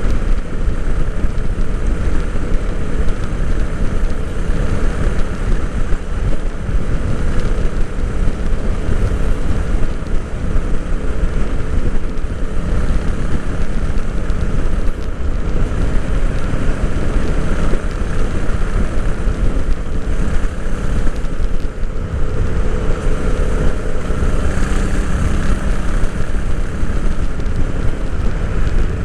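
Royal Enfield Interceptor 650's 648 cc parallel-twin engine and exhaust running steadily while the bike is ridden, heard onboard with road and wind noise mixed in.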